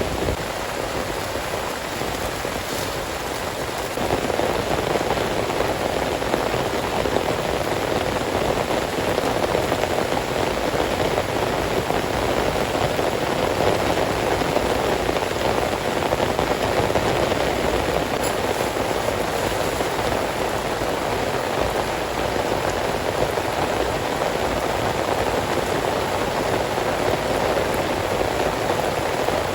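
Heavy rain falling steadily, a dense even hiss that grows a little louder about four seconds in.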